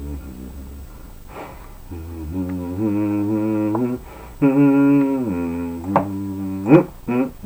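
A man humming a wordless tune to himself in drawn-out phrases, holding notes and sliding between them, with a few sharp clicks near the end.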